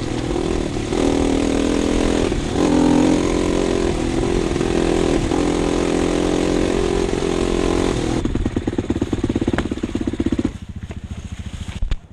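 Dirt bike engine running under throttle, its pitch shifting up and down. About two-thirds of the way through it eases off and drops to a quieter, pulsing chug.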